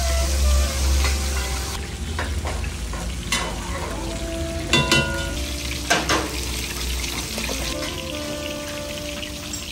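Pieces of fish deep-frying in a pot of hot oil, sizzling steadily as they are stirred, with a few sharp knocks of a metal spoon against the pot.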